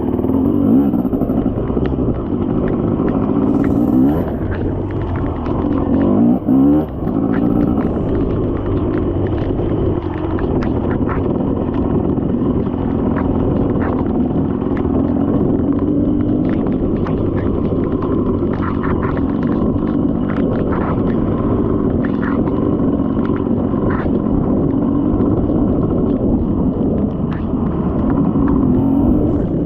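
Dirt bike engine running under way, its revs rising and falling briefly about six to seven seconds in, with scattered knocks and rattles through the second half.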